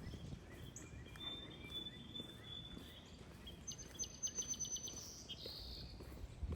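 Songbirds calling: thin high whistled notes, then a quick run of sharp high chips about four seconds in, over a low steady background rumble of the street.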